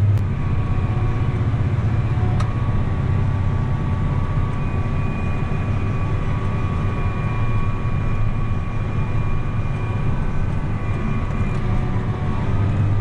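Tractor engine running steadily under load while pulling a disc harrow through the soil, a low drone with a steady higher whine over it.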